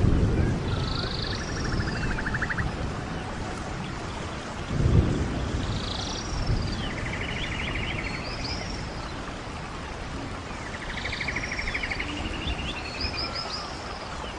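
Rainforest ambience: a steady hiss of rain under repeated calls, each a short high call with a sweeping note followed by a fast rattling trill, coming round about every five seconds. A low rumble swells about five seconds in.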